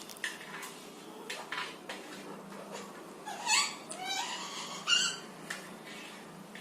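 Pet parrot calling twice in the middle, each call a rising squawk, the second ending in the loudest note. Small clicks and taps are scattered throughout.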